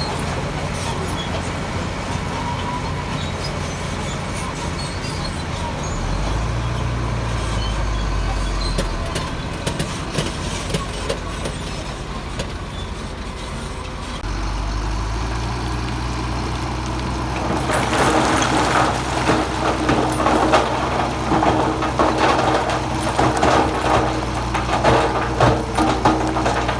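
Heavy diesel engine of earthmoving machinery running steadily, working harder about six seconds in and again from about halfway. From about two-thirds of the way through, dense crunching and clattering of rock being moved takes over and is the loudest sound.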